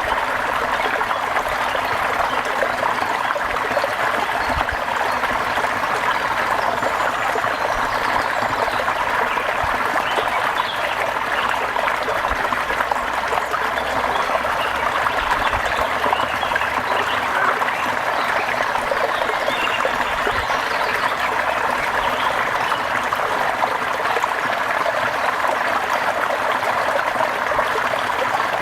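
Steady rain falling: an even, continuous hiss of water with no breaks or changes.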